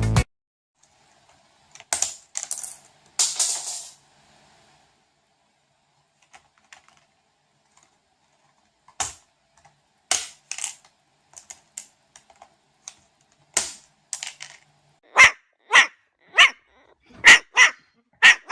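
Scattered clicks and taps, with two short rustling noises in the first few seconds, then a run of sharp knocks about twice a second near the end.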